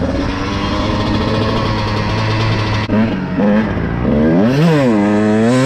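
Dirt bike engine running steadily, then about four seconds in its revs swing sharply up and back down.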